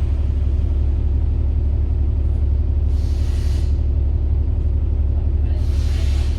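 Diesel bus engine running steadily with a low rumble, heard on board, with two short hisses of air from the air brakes about three seconds in and again near the end.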